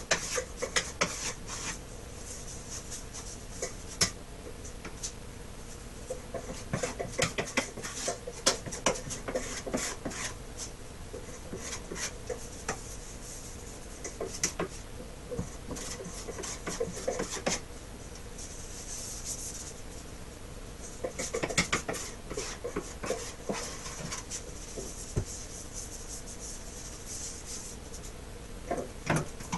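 Hand work on a wooden surface: irregular rubbing and scraping strokes, broken by scattered sharp clicks and taps.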